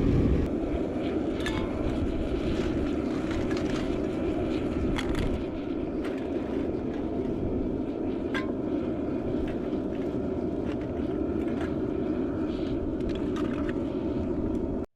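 Propane burner of a small metal melting furnace running steadily, a dense rushing noise with scattered light clicks and ticks. The sound cuts off abruptly near the end.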